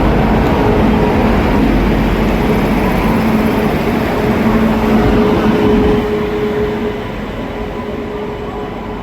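A train running: a steady, loud rumble with a steady hum through it, growing quieter about six to seven seconds in.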